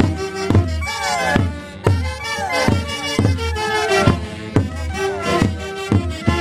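Andean orquesta típica playing a Santiago tune: reedy wind instruments over a strong, steady bass beat, with the melody sliding downward again and again.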